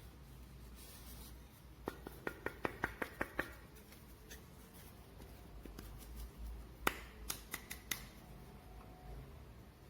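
A quick run of about eight small sharp clicks or taps, then a louder click about seven seconds in, followed by a few lighter ones.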